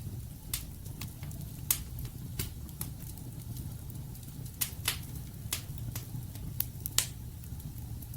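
Wood fire burning in a fireplace: a low steady rumble of flame with sharp, irregular crackles and pops from the burning logs, the loudest pops about two seconds in and near the end.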